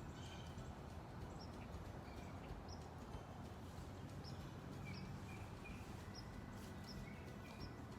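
Small birds chirping in short, scattered calls over faint low background noise.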